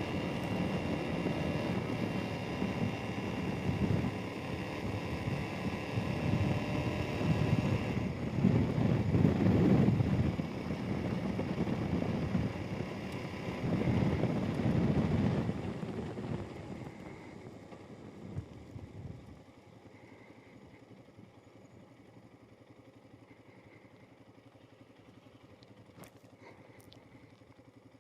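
Royal Enfield Himalayan's single-cylinder engine running under way with wind noise, swelling louder twice, then falling away about two-thirds of the way in to a much quieter steady sound.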